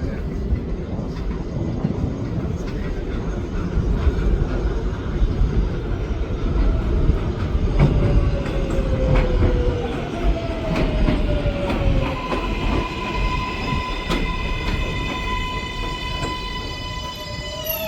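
A 7-line subway train of R188 cars pulling into an elevated station: a heavy wheel rumble with clicks over the rail joints. The motor whine falls in pitch as the train brakes, and a steady high whine holds as it comes to a stop.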